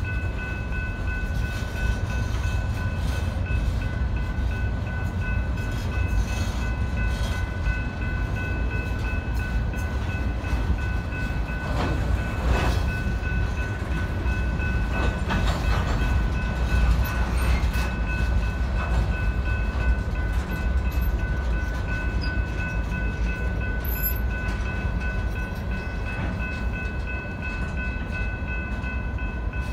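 BNSF freight train's open-top hopper cars rolling past at steady speed: a continuous low rumble of wheels on rail with some louder clatter about midway. Steady high ringing tones sound over it the whole time, fitting the grade-crossing warning bell.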